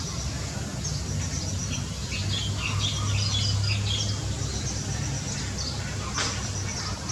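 Birds calling in many short, high chirps and squeaks, one after another, over a low steady hum that swells for a couple of seconds in the middle. A short click comes about six seconds in.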